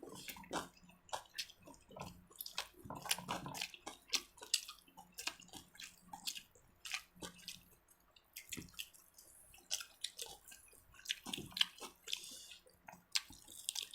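People eating: irregular wet chewing and smacking with small clicks, with a faint steady hum underneath.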